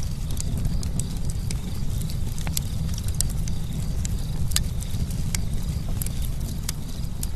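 Campfire crackling: irregular sharp pops and snaps, a few louder than the rest, over a steady low rumble of the burning fire.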